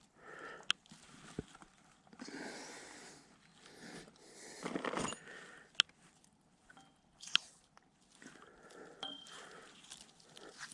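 Sharp clicks and crunching handling noises, irregular, with the loudest clicks a few seconds apart.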